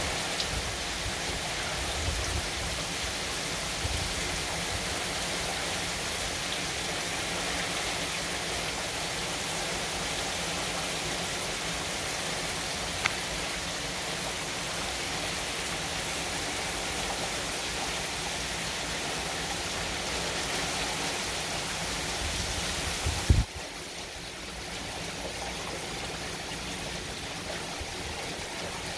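Heavy hurricane rain pouring steadily, with low gusts rumbling now and then. A short click near the middle and a sharp thump about three-quarters of the way in, after which the rain sounds softer and duller.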